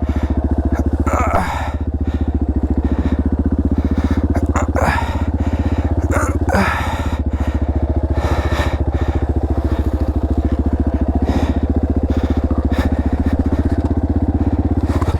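Dirt bike engine idling steadily at a constant low pitch, with no revving.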